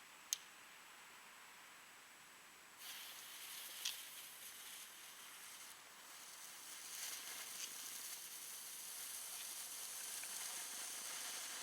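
Power fountain firework burning: a click near the start, then about three seconds in a high hiss starts suddenly and grows steadily louder, with a few faint crackles.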